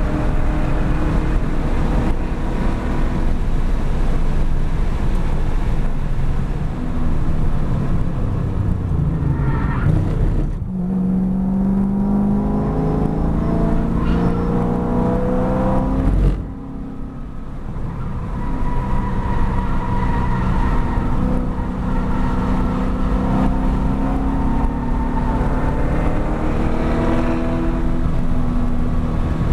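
2013 Chevrolet Camaro 1LE's 6.2-litre V8, heard from inside the cabin, running hard at high revs with tyre and wind noise. About ten seconds in it eases off for a slow corner, then climbs steadily in pitch under acceleration. A short lull about sixteen seconds in is followed by another rise in pitch as the car pulls back up to speed.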